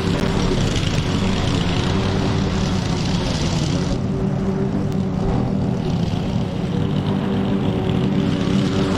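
Petrol lawn mower engine running steadily under load, with a hiss over it that eases for a couple of seconds about halfway through.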